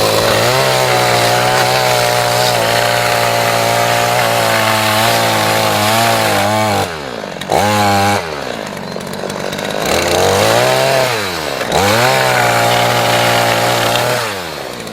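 Two-stroke chainsaw cutting firewood, held at high revs for about six seconds. It then drops back, gives a short rev, swings up and down and is held high again before easing off near the end.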